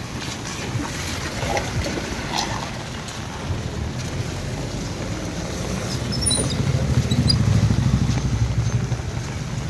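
A motor vehicle's engine running close by, its low hum growing louder about six seconds in and easing off near the end, over a steady background rush.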